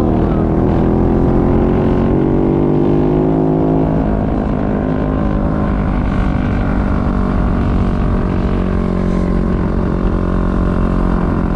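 Dirt bike engine running on a trail ride, its pitch climbing over the first few seconds as the bike accelerates, then holding fairly steady.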